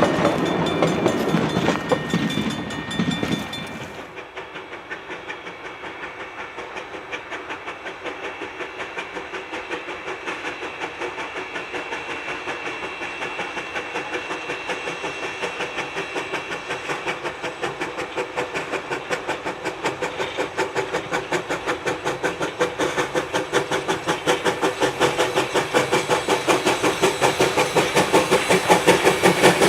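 Steam locomotive working with its train, its exhaust beats in a quick, even rhythm that grows steadily louder as it draws near. A louder stretch of train noise in the first few seconds cuts off suddenly.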